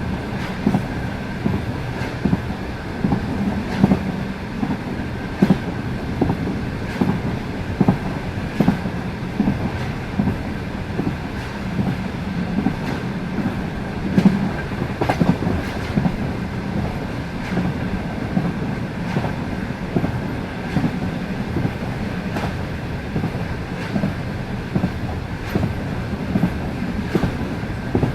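Passenger train rolling along at speed: the wheels give a clickety-clack over the rail joints, a sharp knock every second or so over a steady rolling rumble.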